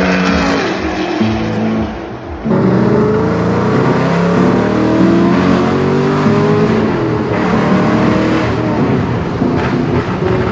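High-performance car engines revving and accelerating hard in a string of short clips, the engine note climbing again and again as it pulls through the gears, with music underneath. The sound changes abruptly twice where the clips switch.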